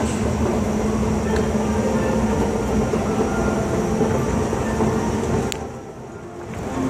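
Subway train running with a steady hum and rumble, which drops away about five and a half seconds in.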